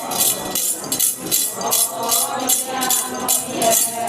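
Metal jingles shaken in a steady rhythm, about three shakes a second, keeping the beat of a Ponung dance song, with the dancers' voices faint beneath.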